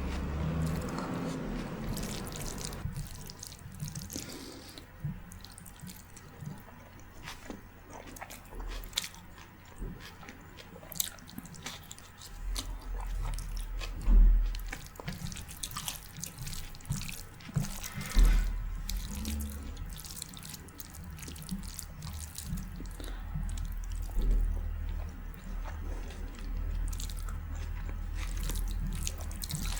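Close-miked wet chewing and mouth sounds, many small smacks and clicks while eating soft rice, lentils and curry. Two stronger low thumps come about halfway through.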